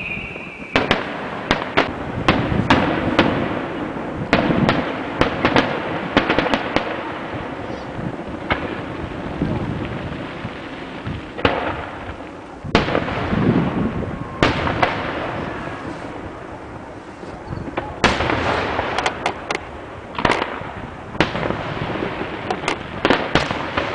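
Fireworks going off: many sharp bangs and crackles in irregular clusters, with a dense flurry near the end.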